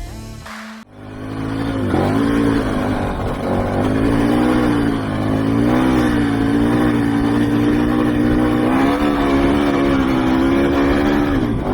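Motorcycle engine running under way: after a cut about a second in, the engine note builds, then holds with gentle rises and falls in pitch as the throttle varies.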